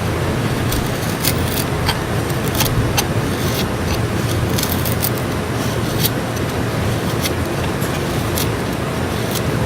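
A knife blade shaving a wood stick into a feather stick: short scraping strokes at irregular intervals, about one a second, over a steady low rumbling background.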